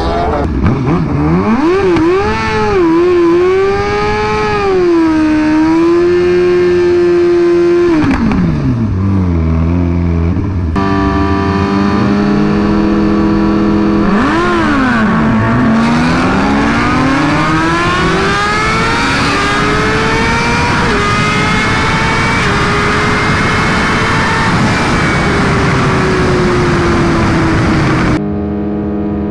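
Suzuki GSX-R1000 inline-four engine revved hard and held high for a few seconds, dropping to a low steady note about eight seconds in. It is blipped again, then climbs in a long rise in pitch and falls away slowly, with an abrupt change in the sound near the end.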